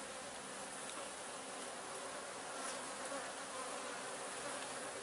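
Swarm of honeybees buzzing in a steady drone, with many foragers flying in and out of a busy hive entrance.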